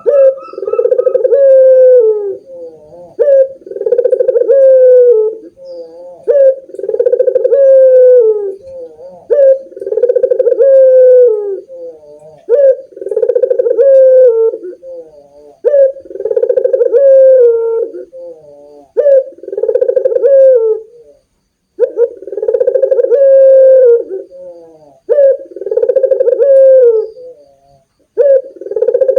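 Puter doves cooing: a steady run of low coos, each one to two seconds long and dropping in pitch at the end, following one another almost without a break.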